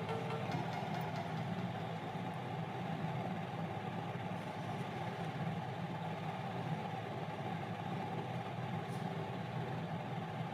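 Steady low rumbling noise, even throughout, with no tones or distinct events in it.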